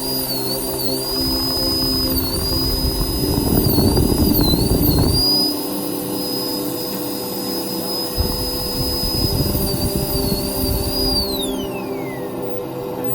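High-speed rotary handpiece in a dental lab, whining at a high pitch that dips and wobbles as the bur is pressed into the work, with rough grinding noise underneath; near the end the motor is released and its pitch falls as it winds down.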